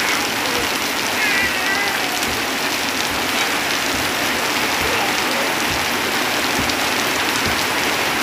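Heavy rain falling steadily on leaves and a tin roof, with runoff pouring off the roof edge and heavy drops thudding throughout.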